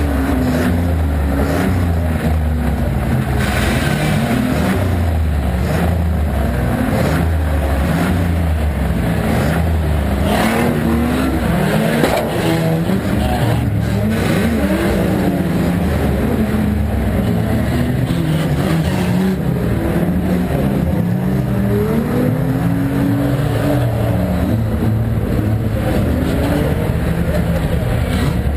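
Volvo estate banger race car's engine, heard from inside the stripped cabin, revving up and down so its pitch keeps rising and falling. A single sharp knock about twelve seconds in.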